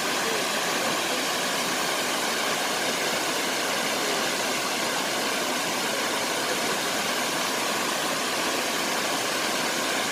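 Shifen Waterfall's falling water: a steady, unbroken rush of noise with a constant level.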